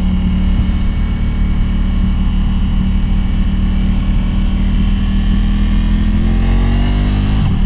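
Motorcycle engine running steadily under way with wind rushing past the microphone. Over the last couple of seconds the engine note rises, then drops out for a moment just before the end.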